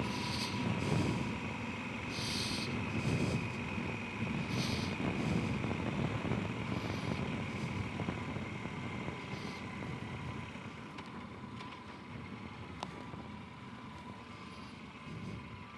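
Low rumbling road noise of a vehicle in motion, strongest in the first half and slowly fading away, with short hissy rushes and a faint steady whine.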